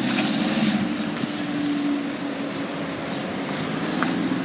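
Vehicle engines running steadily with a low hum, the sound of road traffic held at a level crossing as its barriers rise.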